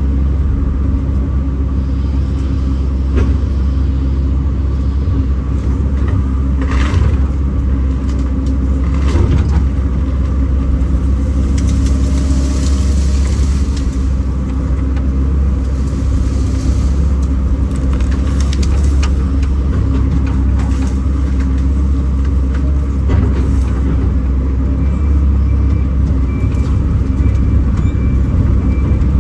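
Kobelco SK210 hydraulic excavator running steadily while working, a heavy low diesel hum with steady tones above it, and brief knocks and rustles now and then.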